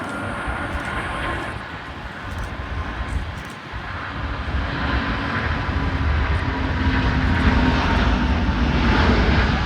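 Airbus A350 jet engines at takeoff power on the departure roll, a low rumble that swells louder about halfway through, with a faint steady whine that slowly drops in pitch.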